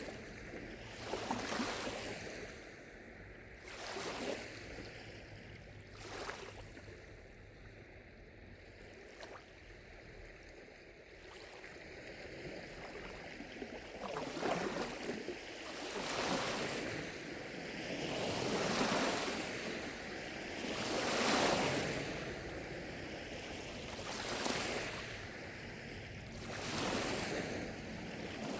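Small lake waves lapping at the shore, each wash swelling and fading every two seconds or so. They are weaker for several seconds near the start, then build to stronger washes.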